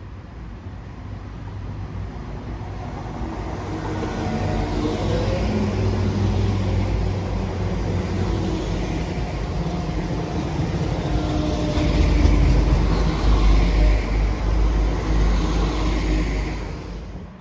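West Midlands Railway Class 172 Turbostar diesel multiple unit approaching and running past along the platform, its diesel engines and wheels on the rails growing steadily louder, with a rising engine note a few seconds in. It is loudest with a deep rumble as the carriages go by near the end.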